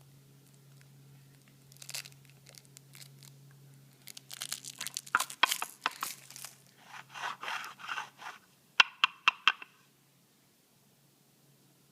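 Crinkling, crunching and tearing noises from something being handled, densest about four to six seconds in. They end with four sharp clicks in quick succession, then stop.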